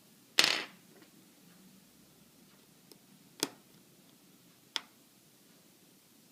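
Three sharp clicks and taps of small hard objects on a work surface, typical of tools and iPhone parts being handled during disassembly. The first, less than a second in, is the loudest and rattles briefly. The other two are single clicks about a second and a half apart.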